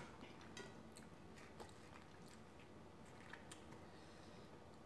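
Faint chewing with the mouth closed: a few soft, scattered mouth clicks.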